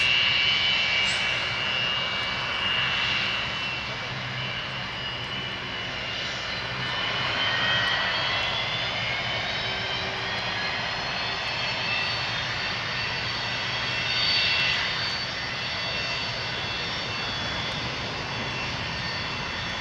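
Cargojet Boeing 727-200F's three Pratt & Whitney JT8D turbofans running at low power before the takeoff roll: a steady jet rush with high whining tones that slowly shift in pitch, swelling briefly about two-thirds of the way through.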